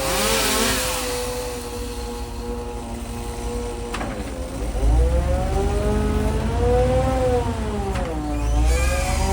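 An engine running continuously, its speed dipping and recovering several times, with a brief hiss right at the start.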